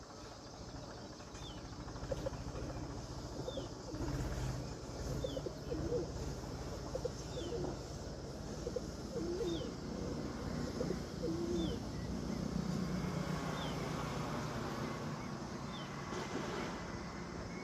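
A bird calling with a short, high, falling note repeated about once a second, over steady outdoor background noise.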